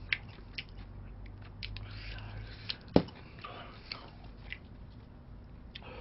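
Eating fried chicken: scattered small clicks and mouth smacks of chewing, with one sharp knock about three seconds in.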